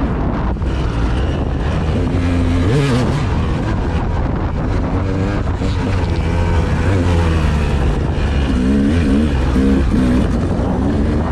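A vehicle engine rising and falling in pitch as it is revved, under heavy wind buffeting on the microphone.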